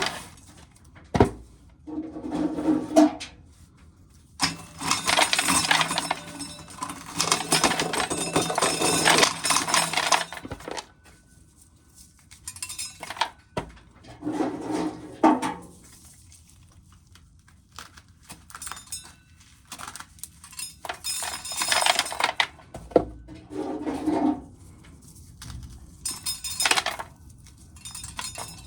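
Dried field corn being shelled, the kernels rattling and clinking into a container in several separate bursts, the longest lasting about six seconds.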